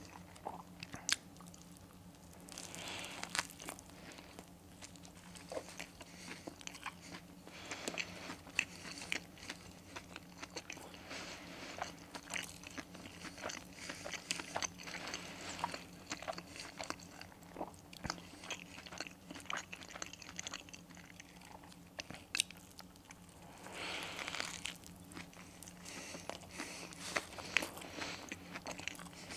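Close-up chewing of a burger with a crispy breaded chicken fillet, with many short, irregular crunches of the coating as it is bitten and chewed. A faint steady hum underneath.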